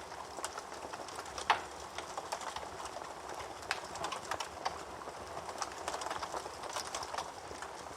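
Wood fire crackling in a fireplace: a stream of small irregular crackles over a soft hiss, with a sharp pop about a second and a half in and another a little before the middle.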